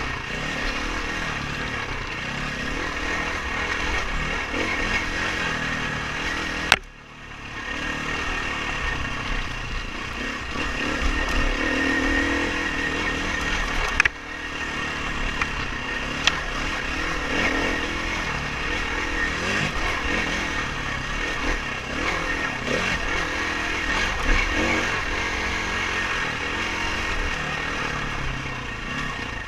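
Dirt bike engine running as the bike is ridden on a race trail. Two sharp knocks cut across it, about a quarter of the way in and again about halfway, the first followed by a brief dip in the sound.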